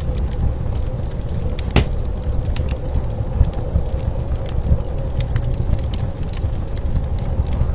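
Wood fire crackling and popping irregularly, one sharper pop a couple of seconds in, over a steady low rumble of blizzard wind.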